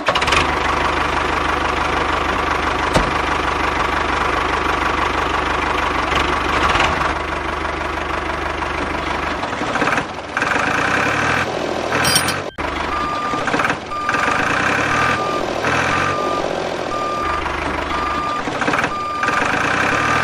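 A vehicle runs steadily. From about halfway a reversing alarm starts, one short beep about once a second.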